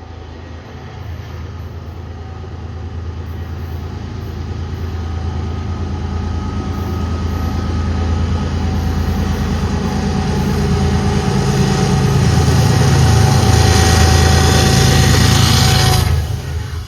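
Diesel locomotives of an approaching freight train: a deep engine rumble with a steady whine on top, growing steadily louder, then dropping off sharply near the end.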